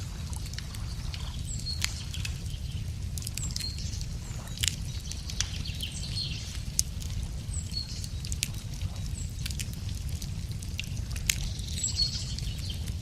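Wood fire crackling, with irregular sharp pops and snaps over a steady low rumble, while small birds chirp with short repeated calls.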